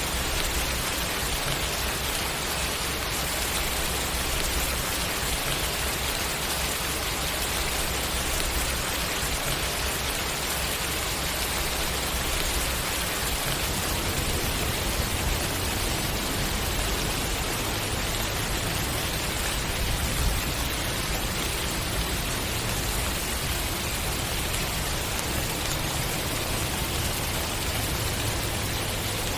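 Steady rain falling on a surface, an even hiss of drops.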